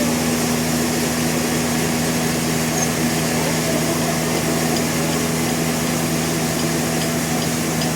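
Sawmill machinery running steadily: a constant engine or motor drone with two steady low tones, unchanging in level throughout.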